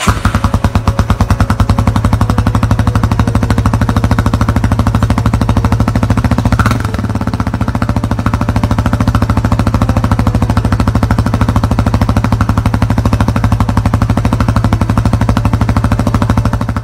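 Yamaha Serow 225's single-cylinder four-stroke engine idling steadily through its replacement muffler, a loud, even, rapid exhaust putter.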